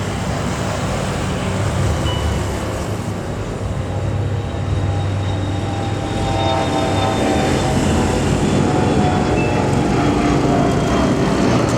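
Jet airliner engine noise, a steady rushing roar that grows slightly louder through the clip, with faint whining tones in its second half.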